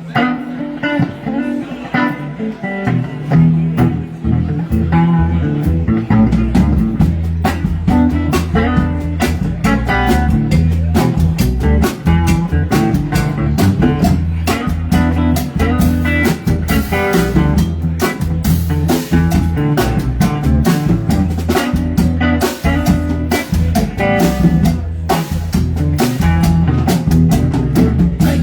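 Live band playing an instrumental passage on electric guitar, bass and drum kit; the guitar opens alone and the bass and drums come in about three seconds in.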